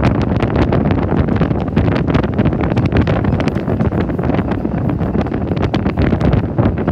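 Wind buffeting a microphone held out of a moving passenger coach's window, over the steady rumble of the train running along the track.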